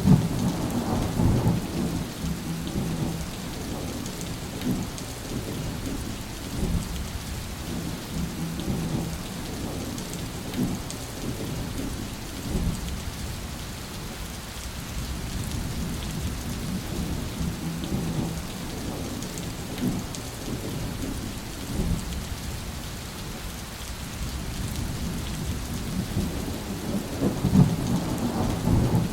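Thunderstorm: steady rain with rolling thunder, the rumble strongest at the start and again near the end.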